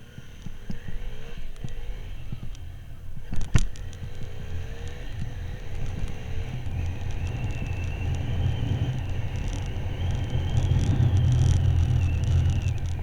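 Motorcycle being ridden, its engine and the wind making a steady low rumble that grows louder, with a sharp knock about three and a half seconds in.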